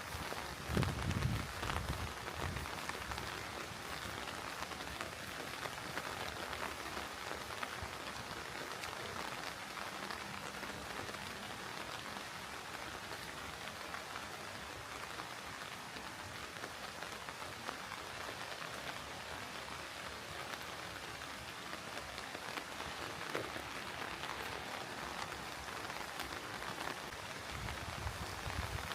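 Steady rain falling, an even hiss of drops throughout, with a few low thumps about a second in and again near the end.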